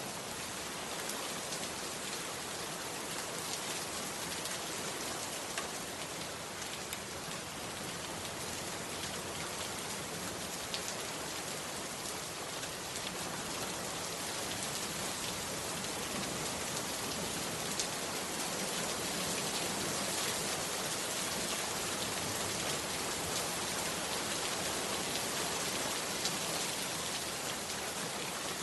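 Heavy rain falling steadily, a dense hiss with a few sharper drop ticks, growing slightly louder in the second half.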